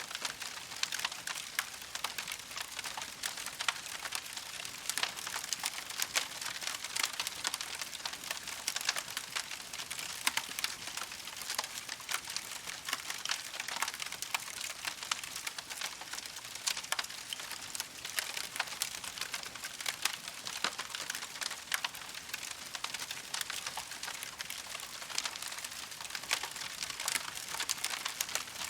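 Wood campfire burning, crackling steadily with many small irregular pops and snaps over a soft hiss.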